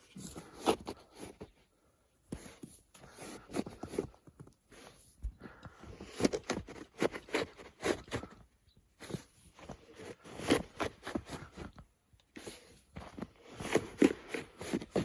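Crunching in fresh snow: runs of short crunches a few per second, broken by brief pauses.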